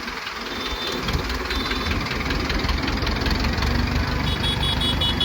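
Heavy diesel engine of a tipper truck running, its low rapid throb growing louder about half a second in. Short high beeps sound twice early on, then in a quick series near the end.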